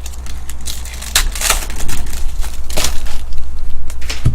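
Baseball trading cards and their pack wrappers being handled, crinkling and rustling, with the loudest rustles about a second and a half in and again near three seconds, over a steady low hum.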